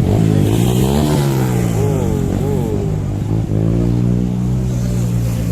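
Motorcycle engines running steadily, with engine pitch rising and falling between about half a second and three seconds in, as if bikes are being revved.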